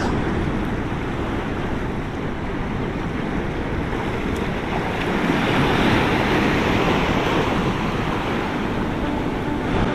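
Sea waves washing onto the beach, with wind buffeting the microphone; the surf swells louder about halfway through.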